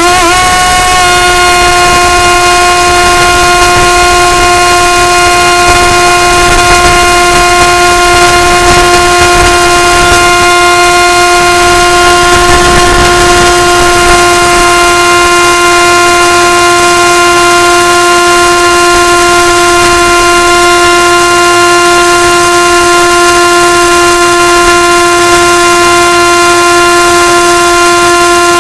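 Electric motor and propeller of an FPV model plane running at steady high throttle: a loud, even whine. It settles onto one pitch at the start after spooling up.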